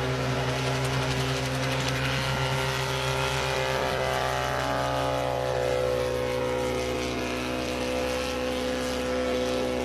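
Homemade helicopter's engine and rotor running steadily. A higher whine falls in pitch over a few seconds in the middle, then levels off.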